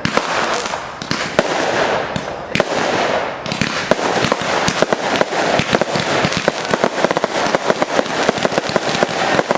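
Aerial fireworks going off in a continuous barrage of rapid pops and crackles, growing denser about three and a half seconds in.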